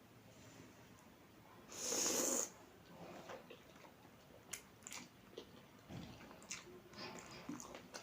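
A loud slurp of spicy instant noodles lasting about half a second, about two seconds in, followed by quieter chewing and small wet mouth clicks.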